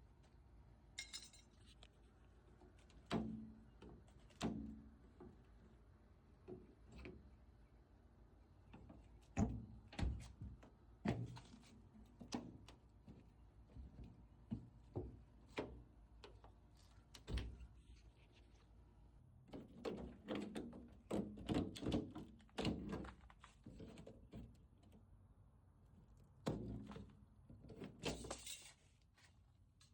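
Irregular knocks, taps and clicks of hand work on car trim, with bunches of louder thunks now and then.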